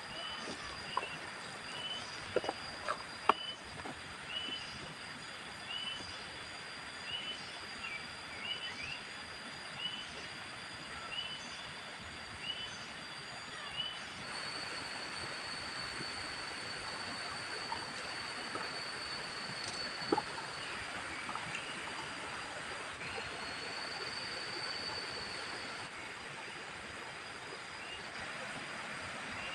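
Forest ambience: a steady high-pitched insect drone with short chirping calls repeated about once a second. A few sharp knocks come in the first few seconds and another about two-thirds of the way through.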